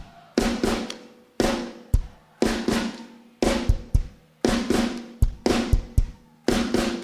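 Live band's drum kit playing a steady groove on its own, with no singing: bass drum and snare, with a loud ringing accent about once a second.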